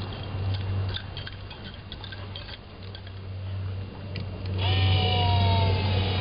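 A motor running with a steady low hum and a few faint clicks, then, shortly before the end, a louder whine that starts suddenly and slowly falls in pitch.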